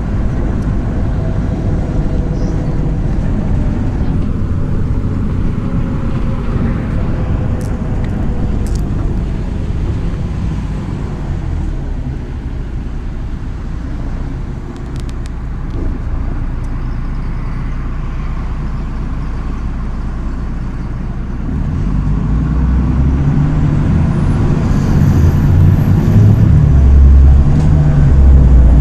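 MAZ-103 city bus driving: steady engine and road rumble with a few light clicks, easing off slightly around the middle, then the engine pulling louder for the last several seconds.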